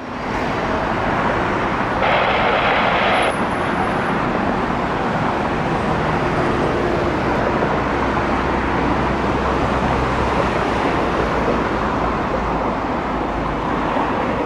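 Steady rushing noise of jet airliner engines with a low rumble underneath. About two seconds in, a short burst of hiss comes in, like an air traffic control radio keyed with no speech.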